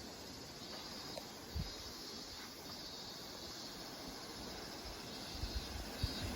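Steady outdoor insect chorus, a high even drone, with a few low thumps near the end.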